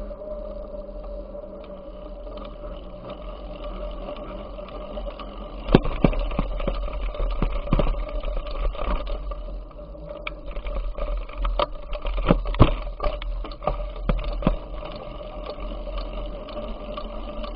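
A bicycle being ridden, with a steady low rumble. Partway through, a run of sharp knocks and rattles lasts several seconds, then the steady rumble goes on alone.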